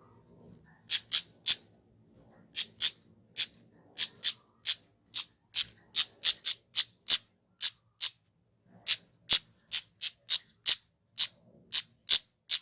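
Kemade (flowerpecker) calling: a rapid series of short, sharp, high-pitched 'tsit' notes, two or three a second, with a few brief pauses between runs.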